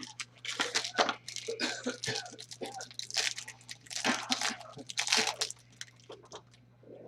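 Trading card pack wrapper being torn open and crinkled by hand, a run of crackly rips and rustles that dies down near the end.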